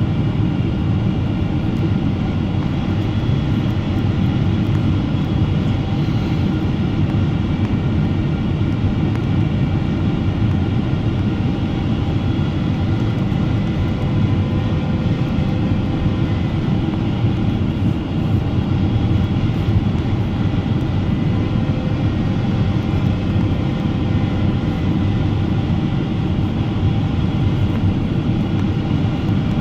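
Steady cabin noise of a Boeing 777-300ER airliner in flight: an even low rumble of engine and airflow with faint, steady higher engine tones running through it.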